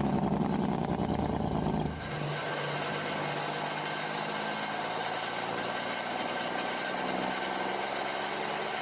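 A vehicle engine running steadily, louder for the first two seconds, then settling to an even idle.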